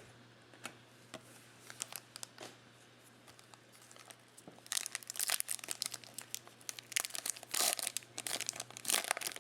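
A trading-card pack wrapper crinkling as it is handled and torn open, with a few light ticks of cards being handled before it. The crinkling comes in a dense stretch from about five seconds in, over a faint steady hum.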